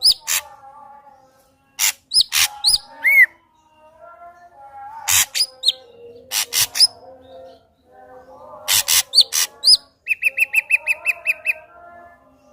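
Ashy drongo singing a varied song: sharp clicking notes and short rising whistles, with lower warbled notes between them. Near the end comes a quick run of about nine repeated notes.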